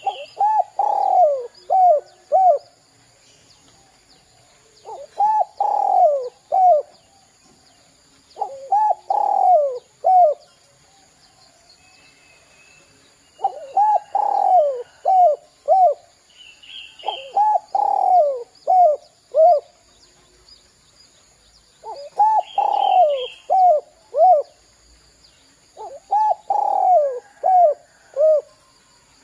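Spotted dove (derkuku) cooing in repeated phrases, seven in all, one every three to four seconds. Each phrase is a run of falling coos that ends in two short clipped notes, the 'kuk kuk' ending. A faint chirp from another bird comes now and then.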